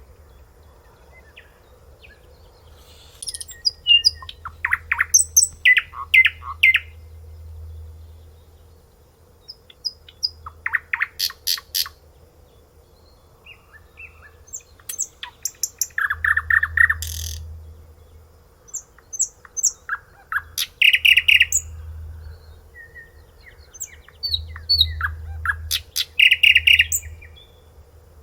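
A songbird singing loud phrases of rapid repeated notes, trills and falling whistles, with a new phrase every few seconds after a short pause.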